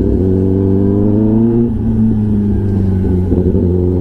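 Kawasaki ZX-10R's inline-four with an SC-Project aftermarket exhaust, running loudly while the bike is ridden. The engine note climbs slowly, shifts about halfway through as the revs change, and turns uneven near the end.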